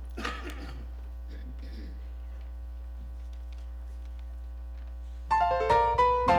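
Steady low hum with a brief rustle shortly after the start, then about five seconds in a piano starts playing single ringing notes, the introduction to the choir's anthem.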